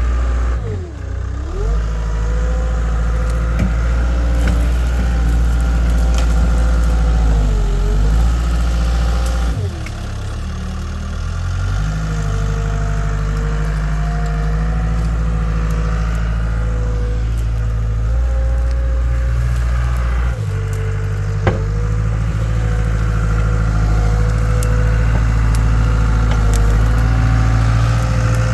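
CAT 252B skid steer's diesel engine running steadily, its pitch dipping and recovering a few times in the first ten seconds as the machine is worked, with a steady whine above it. There is a single sharp knock about 21 seconds in.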